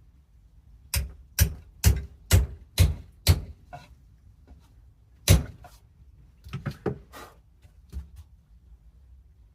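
Hammer tapping small panel pins into wood: a run of about six even strikes, then a single louder blow and a few quicker, lighter taps.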